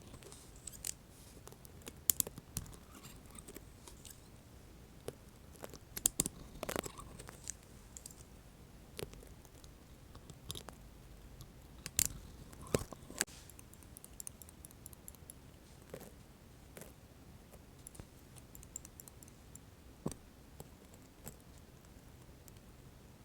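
Close-miked ASMR trigger sounds: scattered sharp clicks and crackly taps from metal tongs being worked, loudest in the first half. Fainter ticking and rustling follow as a sticker is picked at and peeled.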